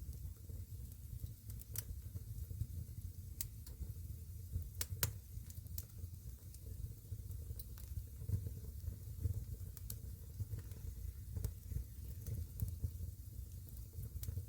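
Wood campfire crackling: scattered sharp pops and snaps, with a couple of louder ones about five seconds in, over a steady low rumble.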